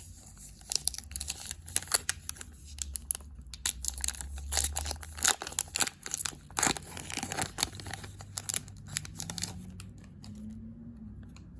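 Foil wrapper of a hockey card pack being torn open and crinkled: a quick run of crackling that dies down about two seconds before the end.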